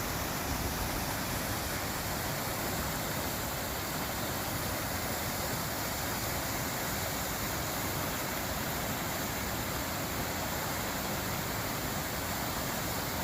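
Waterfall with rushing water, a steady, unbroken rush.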